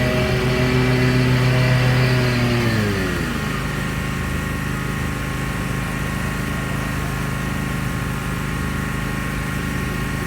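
Lawn mower engine running; its pitch falls about three seconds in as the engine slows, then it holds steady at the lower speed.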